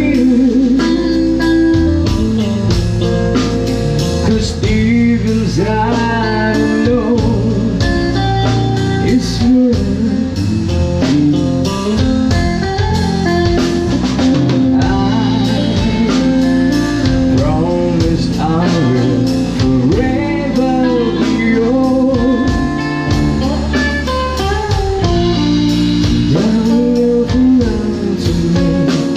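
A band playing a slow, blues-tinged song: a singer's voice over guitar, with steady drum strokes.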